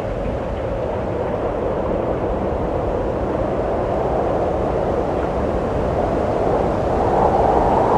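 Wind blowing in a steady rush, swelling into a stronger gust near the end.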